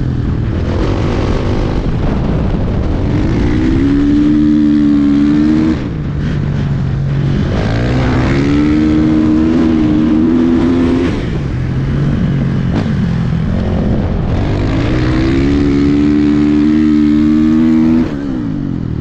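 Dirt bike engine under hard throttle: the revs climb and hold high, then fall sharply as the throttle is shut, three times, roughly every six seconds.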